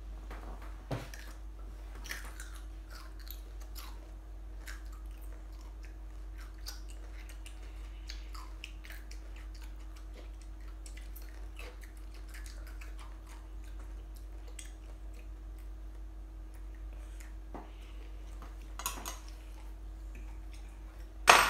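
Two children chewing and eating at the table, with small scattered clicks of forks against plates. A single sharp knock near the end is the loudest sound.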